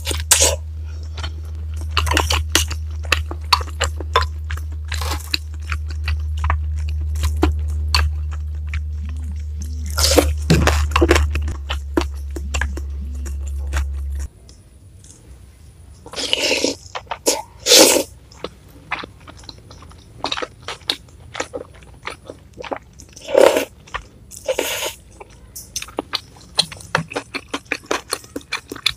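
Close-miked chewing of a jumbo beef meatball's minced-meat filling and noodles in spicy broth: wet smacking and crunchy chews in quick irregular clicks, with a few louder bursts. A steady low hum sits underneath and cuts off suddenly about halfway through.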